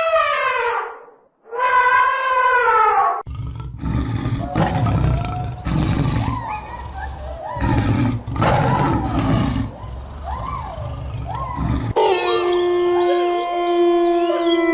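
Big cat roaring and growling, deep and rough, in several long roars in the middle. It is preceded by two falling, pitched calls and followed by a long, steady howl that starts near the end.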